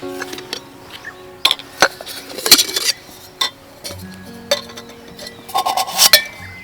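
Sharp clinks and knocks of tableware or cookware being handled, a dozen or so scattered irregularly, over background music of held notes.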